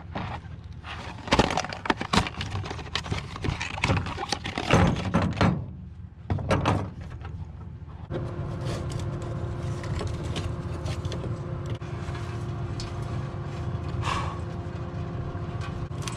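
Hand-tool clicks, knocks and scrapes on the fuel line fittings during a fuel filter change. After about eight seconds they give way abruptly to a steady hum with a low drone.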